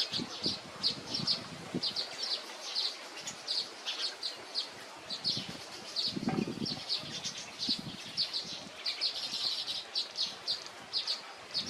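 Small songbird chirping: short, high notes repeated several times a second throughout, with a few low thuds near the start and about six seconds in.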